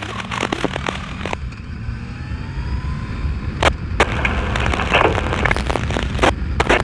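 Motorcycle engine running and wind noise while riding, a steady low rumble, with scanner static crackling in the first second or so and again near the end, and two sharp clicks about midway.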